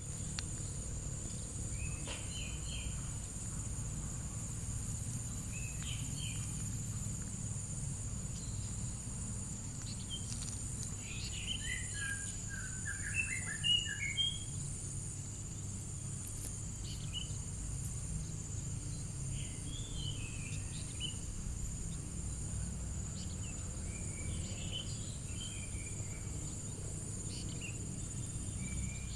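Crickets and other insects trilling steadily at a high pitch, with birds chirping now and then and a busier run of bird calls about twelve to fourteen seconds in, over a low background rumble.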